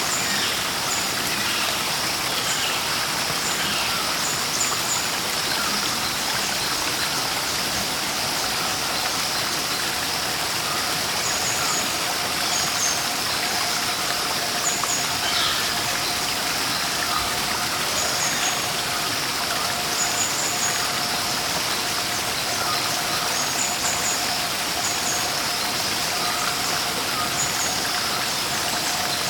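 Rushing water of a waterfall in a steady, even rush, with small birds giving short high chirps here and there. A thin steady tone joins about eight seconds in.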